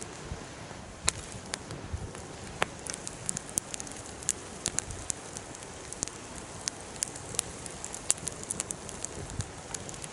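Wood campfire crackling: irregular sharp pops, several a second, some much louder than others, over a steady low hiss of burning.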